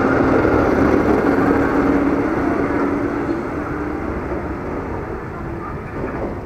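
KRL Commuterline electric commuter train running past and pulling away down the line: wheel-on-rail rumble with a low motor hum, fading steadily as it goes.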